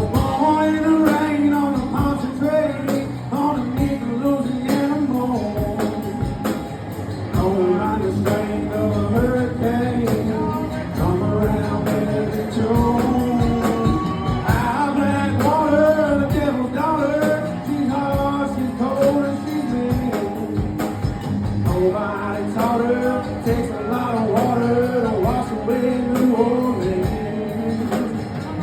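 Live band playing a country-rock song: a melodic lead line that bends in pitch over strummed guitar and a steady beat.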